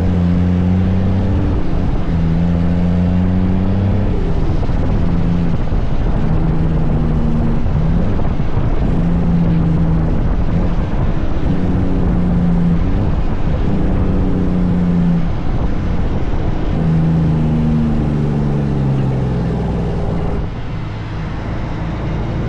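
Kenworth truck's diesel engine running under way, its note holding, then rising and dropping again every second or two. Near the end the note slides down and the engine gets quieter.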